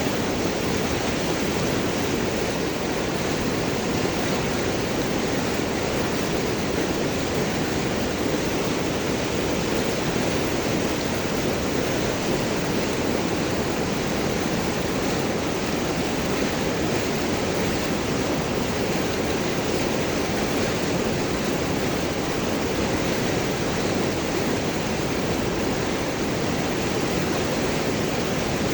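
River water flowing and gurgling over and around large rocks, a steady rushing noise that holds even throughout.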